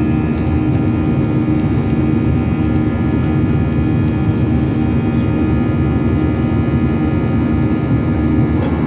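Airbus A320-200 cabin noise in flight: a steady drone of engines and airflow, with several steady hums over it.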